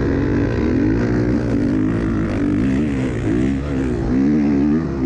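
Dirt bike engine running under way, its pitch rising and falling repeatedly as the throttle is worked on and off, with a short dip in the revs near the end.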